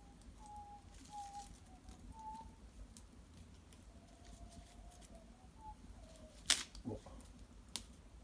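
Cedar-wood fire in an irori hearth, burning with faint crackles and a thin, wavering whistle that comes and goes, typical of steam escaping from the burning wood. One sharp pop about six and a half seconds in.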